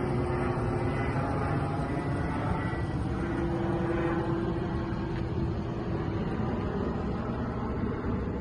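Car engine running at a steady speed.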